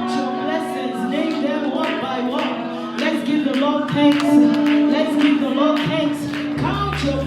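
Worship music: voices singing over sustained keyboard chords with a light steady beat.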